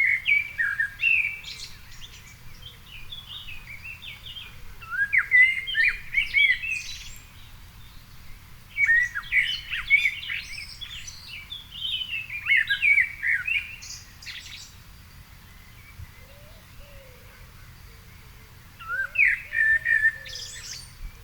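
Songbird singing in short, varied warbling phrases of quick rising and falling notes, about four phrases with pauses of a few seconds between them. A faint steady low rumble runs underneath.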